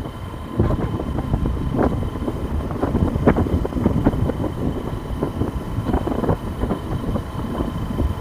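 Hero Hunk single-cylinder motorcycle running on the move, with wind buffeting the microphone and road rumble.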